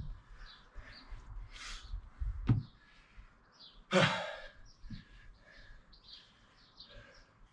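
Birds chirping in the background, many short high chirps, with a knock about two and a half seconds in and a heavy breath out about four seconds in.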